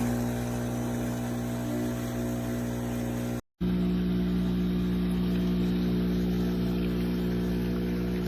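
Steady machine hum made of several steady low pitches, broken by a brief dropout to silence about three and a half seconds in.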